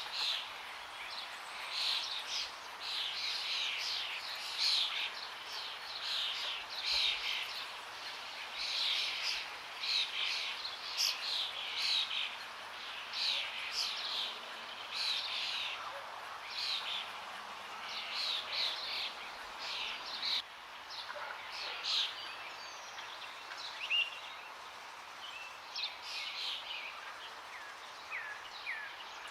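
Many forest birds chirping and singing in quick short calls, over a steady rush of flowing water.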